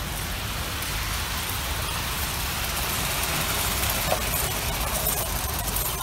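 Steady vehicle noise: a constant low engine rumble under an even hiss.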